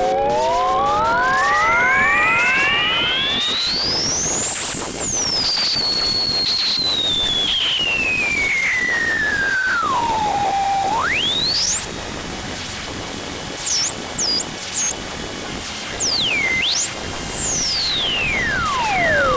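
Electronic music: synthesized tones sliding slowly up and down in pitch over a steady hiss. A cluster of tones rises together, one tone then falls slowly, sweeps sharply back up into fast high warbles, and drops steeply near the end.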